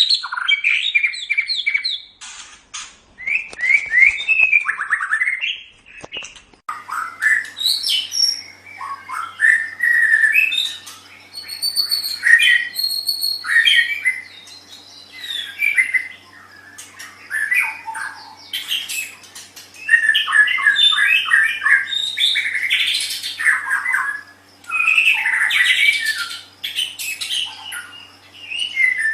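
White-rumped shama (murai batu) singing a loud, varied song of quick whistled and chattering phrases, in bursts separated by short pauses. A faint steady low hum comes in about seven seconds in.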